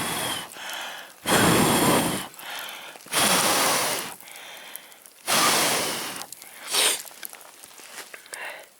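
A man blowing hard onto campfire embers in long breaths, about two seconds apart, then a short puff, to rekindle the coals so the tea boils up.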